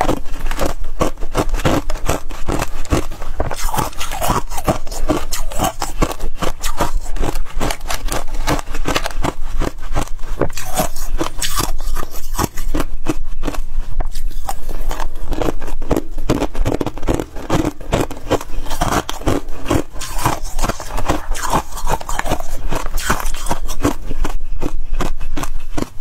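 Freezer frost being scraped, a dense run of scratchy, crackling crunches with no pauses longer than a moment.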